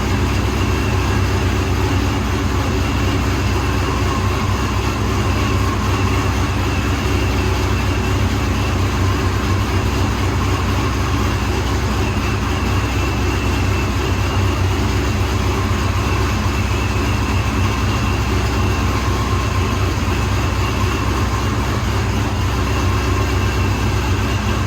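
Cammed 2003 Ford Mustang GT 4.6-litre two-valve V8, with Todd Warren cams, long-tube headers and a Borla ATAK exhaust, idling steadily after a cold start. It has a choppy cam lope.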